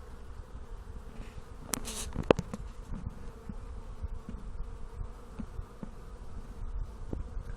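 Honeybees buzzing in flight around their hive, a steady hum. A few sharp ticks come about two seconds in.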